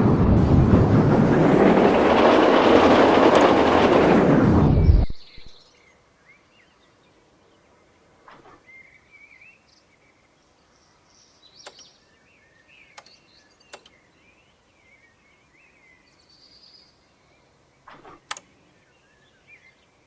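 A train passing close by with a loud, steady rushing rumble that cuts off suddenly about five seconds in. After it, birds chirp faintly, with a few sharp clicks.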